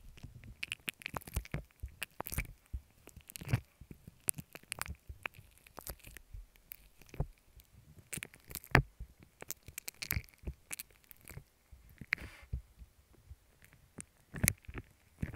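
Slime being squished and pulled close to an earphone microphone, giving irregular sticky clicks and small pops several times a second, with a brief wetter smear near the end.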